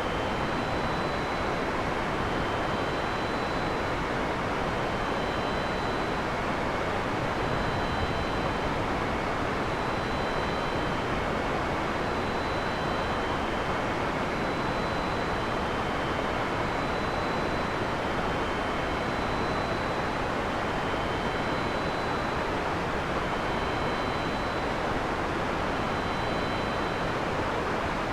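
Heavy rain falling steadily as an even, unbroken hiss at a constant level. Faint short high tones recur every second or two above it.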